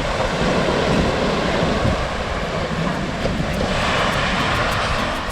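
Steady rushing of ocean surf with wind buffeting the microphone, a heavy low rumble under it.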